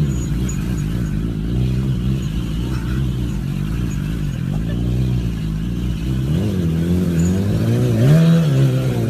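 Motorcycle engine revving up and down repeatedly, its pitch rising and falling in waves, with the highest rev near the end.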